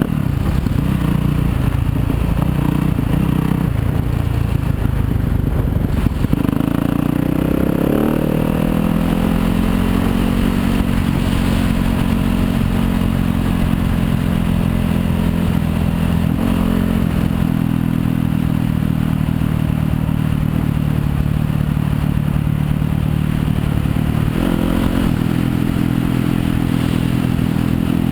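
Yamaha YZ250FX dirt bike's 250 cc single-cylinder four-stroke engine running under way on a trail, its revs rising and falling several times with the throttle.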